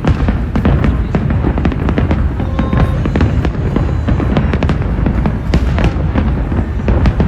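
Fireworks show in a continuous barrage: a rapid, unbroken string of booming bursts and crackling reports, many per second, with no pause.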